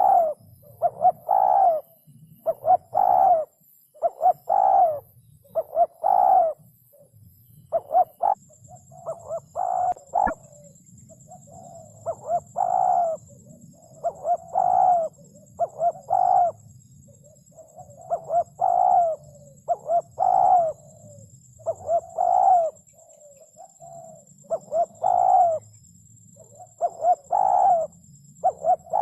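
Spotted dove cooing: short, mellow multi-note coo phrases repeated steadily, about one every one and a half to two seconds.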